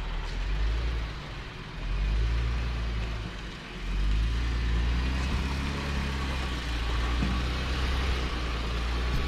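Off-road vehicle engine running with a low rumble, dipping twice in the first few seconds and then holding steady with slight changes in pitch.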